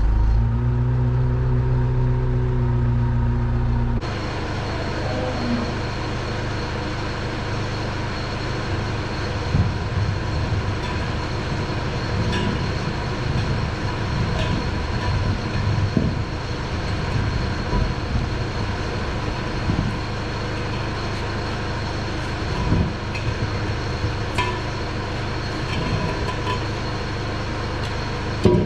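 A machine's engine running steadily, with scattered metallic knocks; its sound changes abruptly about four seconds in, from a deep even hum to a rougher noise.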